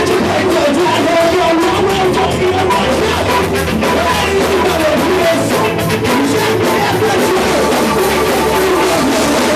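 Live ska-punk band playing loudly: distorted guitar, bass and drum kit with sung vocals, heard as a rough, loud live recording.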